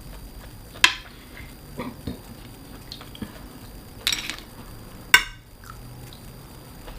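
Tableware clinking and tapping during a meal: four sharp clinks, the loudest about a second in and about five seconds in, over a quiet background.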